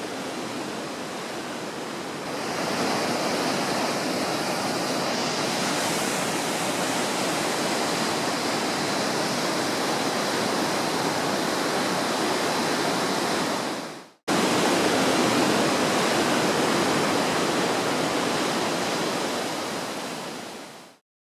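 Waterfall pouring, a steady rush of water. It cuts off abruptly for a moment about two-thirds of the way through, starts again, and fades out at the end.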